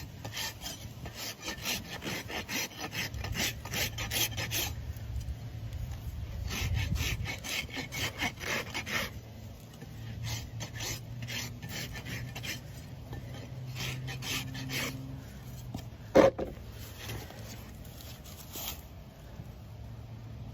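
Farrier's rasp filing a horse's hoof in runs of quick, rapid strokes. A single sharp knock about three-quarters of the way through is the loudest sound.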